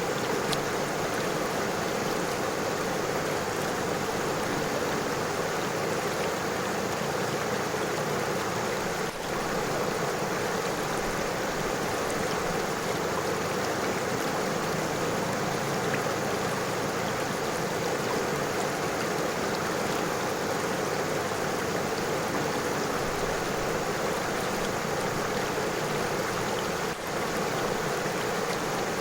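A river flowing over stones: a steady, even rush of running water.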